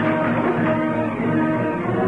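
Background score music from a 1940s film serial: a run of held notes that shift in pitch.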